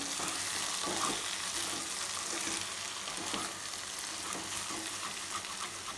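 Drumstick pieces and chopped onions sizzling in a steel kadai while a wooden spatula stirs them, scraping lightly against the pan. The vegetables have already softened in the sauté.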